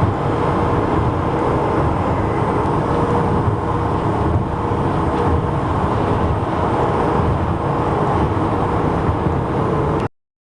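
Steady noise of busy highway traffic, transport trucks and cars passing with tyre and engine noise. It cuts off abruptly near the end.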